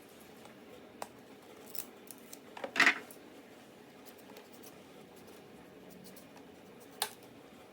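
A few light clicks and knocks from handling cooking utensils during food preparation, the loudest cluster about three seconds in and one sharp click near the end, over a faint steady background.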